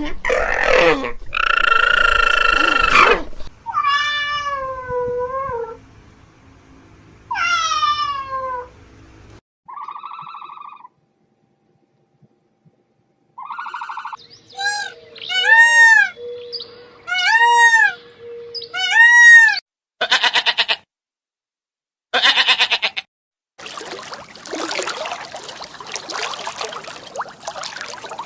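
A run of different animal calls one after another, among them cat meows that fall in pitch, a quick series of five short arched calls, and some harsher noisy calls near the end.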